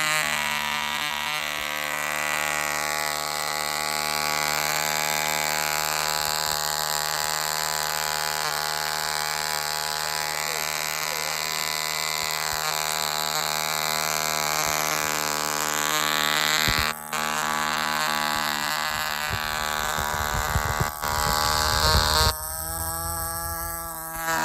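Fox 35 stunt two-stroke glow-fuel model airplane engine running steadily at a constant speed after an electric start. There are two brief dropouts in the second half, and the tone shifts near the end.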